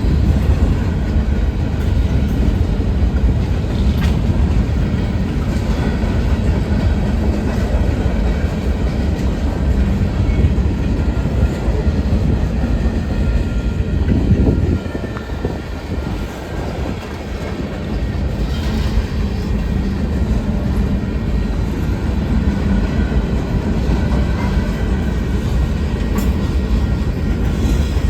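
Union Pacific mixed freight train rolling past on the rails: a steady heavy rumble with clickety-clack and a few sharp clicks. The rumble eases for a few seconds about halfway through, then picks up again.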